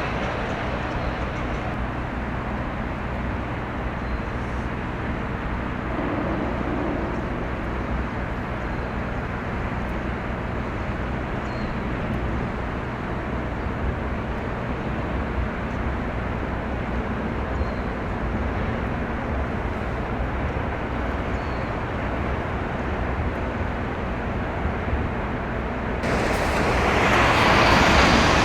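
Low, steady diesel engine drone of a passing coastal container ship, under a constant rush of outdoor noise. Near the end a louder rushing swell comes in over it.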